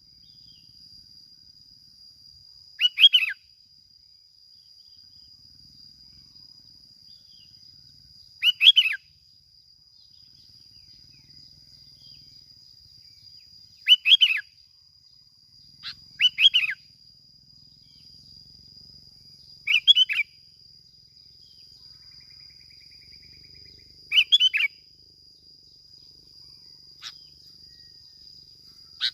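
Bulbul (bông lau) singing short, loud phrases of about half a second each, repeated every few seconds, about seven times. A steady high-pitched drone runs underneath.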